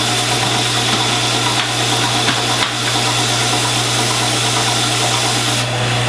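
A machine's motor running steadily, with a constant low hum under an even hiss.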